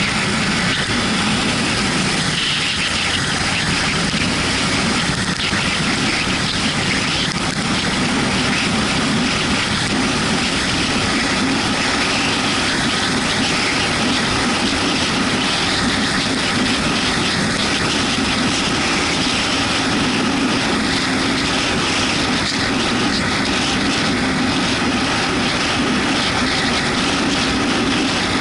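Yamaha MT-125's single-cylinder 125 cc engine running at a steady pace while riding, under a steady hiss of wind and rain or wet-road noise.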